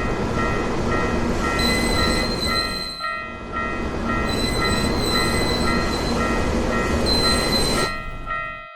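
Train running with a steady rumble while a railroad crossing warning bell rings in an even rhythm, about twice a second. A high whistling tone comes in three times over it. All of it cuts off suddenly just before the end.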